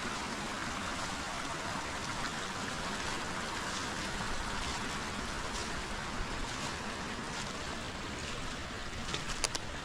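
Forest river water flowing steadily, with a few sharp clicks near the end.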